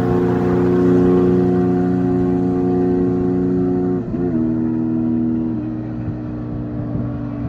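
An engine running with a steady hum, its pitch dipping and dropping a step about four seconds in and dropping again a little later.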